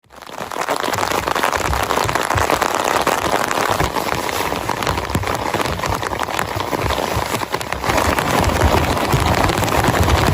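Heavy rain pattering on a tent, a dense steady spatter of drops with low thuds from drops striking the fabric, fading in over the first half second.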